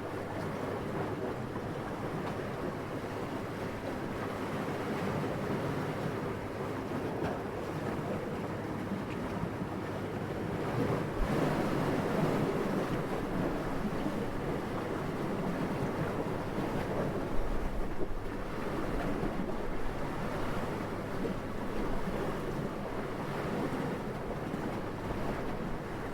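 Steady wind blowing, swelling into a stronger gust about eleven seconds in, then easing back.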